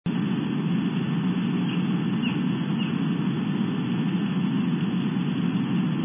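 A steady low noise hum from the camera's feed. Over it come three faint, short, high calls about half a second apart, a little under two seconds in. They are an unidentified bird call.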